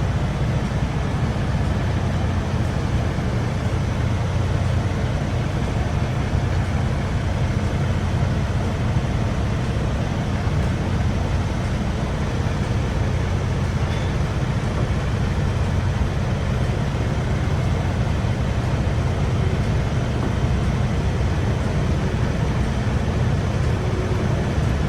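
Steady low rumble of a semi-truck running down the road: engine and road noise, even throughout.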